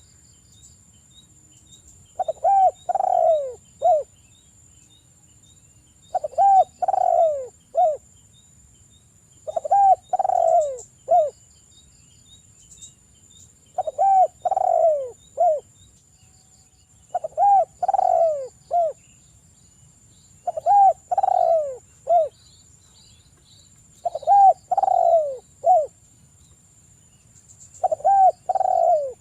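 Spotted dove (derkuku) cooing: a short phrase of three or four falling coos repeated about every three and a half seconds, eight times. Faint, rapid high ticking and a thin steady high whine run underneath.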